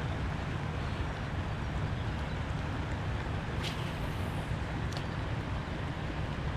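Steady rushing noise of river current around the kayak, with low rumble from wind on the microphone. Two brief sharp clicks sound about three and a half and five seconds in.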